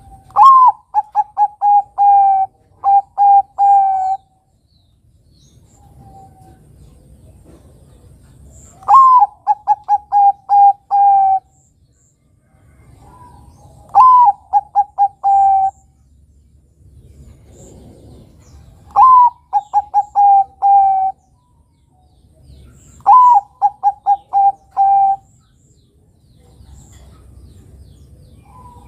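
Bangkok-type zebra dove (perkutut) cooing: five song phrases a few seconds apart. Each phrase opens with a rising-then-falling note, runs into a quick string of short notes and ends on a longer one.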